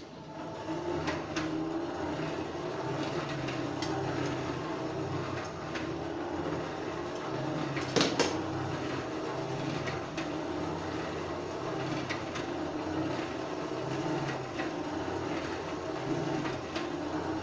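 Blacksmith's forge running steadily while a steel hairpin bar heats in it, a continuous low rumble with a wavering hum. A single sharp metal clink about eight seconds in.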